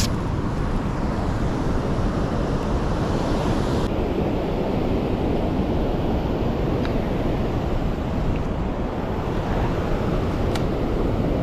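Steady wind buffeting the microphone, a dense rumbling rush without any engine tone, with a few faint clicks.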